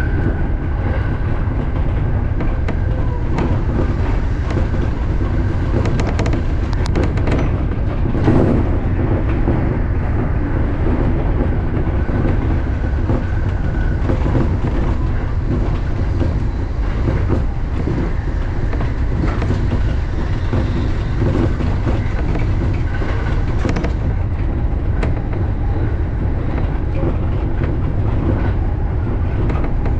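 JR Joban Line electric commuter train running along the line, heard from inside the front car: a steady low rumble with occasional clicks from the wheels on the track.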